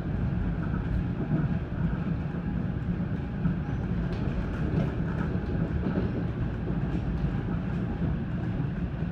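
Steady rumble of a moving NJ Transit commuter train heard from inside a passenger car: wheels and running gear on the rails, with a few faint clicks.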